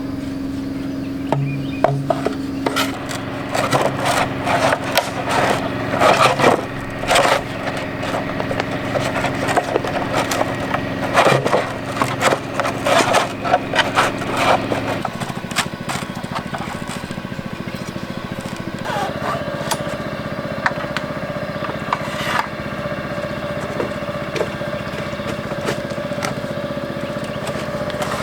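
Scraping and knocking on wood, most busy in the first half and sparser later, over a steady low hum that changes pitch about halfway through.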